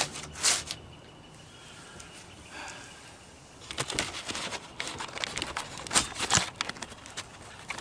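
Scattered sharp knocks and clatter, with a thicker run of them about halfway through, from handling work inside a fiberglass boat hull being stripped of its floor.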